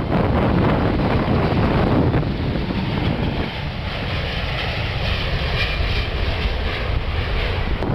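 Loud jet-engine noise of a departing Airbus A380, a dense low rumble that dips slightly a few seconds in, with wind buffeting the microphone.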